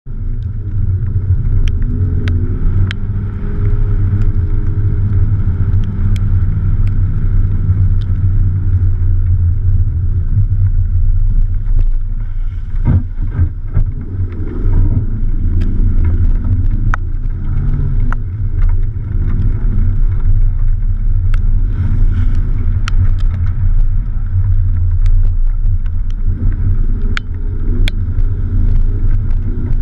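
Fiat Panda 4x4's 1.0-litre four-cylinder engine running as the car drives over a rough dirt track, heard through a camera mounted outside the car, with heavy wind rumble on the microphone. The engine pitch rises and falls with the revs, and sharp clicks and knocks from the rough surface come throughout, with a burst of louder knocks about thirteen seconds in.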